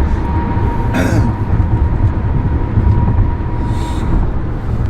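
Steady low rumble of a moving vehicle, with a faint steady whine that fades out near the end. There are short hissy noises about a second in and again about four seconds in.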